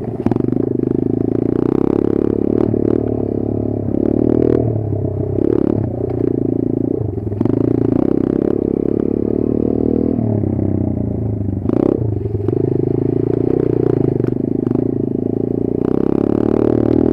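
Kayo 140 pit bike's four-stroke single-cylinder engine running while ridden, the revs easing off and picking up again several times, with clattering and scraping knocks from the bike over rough ground.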